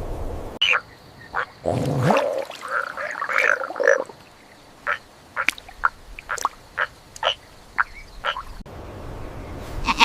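Animal calls: a cluster of louder calls in the first few seconds, then a string of short, separate calls at uneven spacing, ending abruptly.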